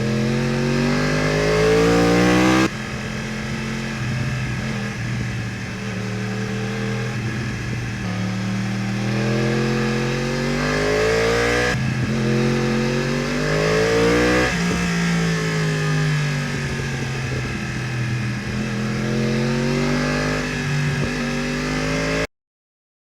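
2015 Yamaha R1's crossplane inline-four engine through an Akrapovič exhaust, revving up again and again as the bike accelerates, with the revs falling once about halfway through. The sound jumps abruptly twice and cuts off shortly before the end.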